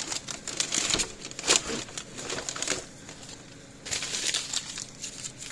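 Rummaging through tools and bits on a workbench: a few seconds of rustling, crinkling and clattering, a pause, then another short burst of clatter.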